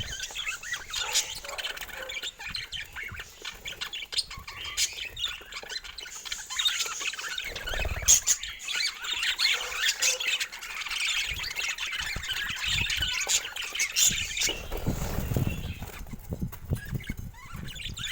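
Budgerigars chattering and squawking, a busy scratchy warble of short calls and clicks. A couple of low bumps come about halfway through and again later.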